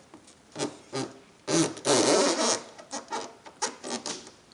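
Duct tape being ripped, one long loud rasp about a second and a half in, with shorter rasps and clicks of handling before and after.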